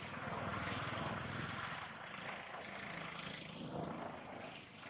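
Heavy rain falling, an even hiss, with a low rumble underneath that swells about half a second in and eases toward the end.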